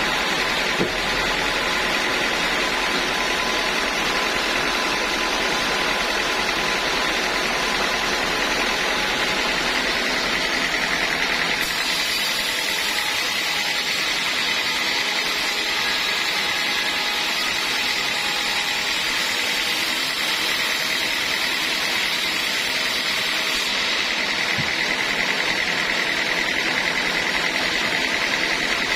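Sawmill saw running steadily, with an even mechanical noise and a high whine. About twelve seconds in the sound turns brighter and hissier, and it eases back again near the end.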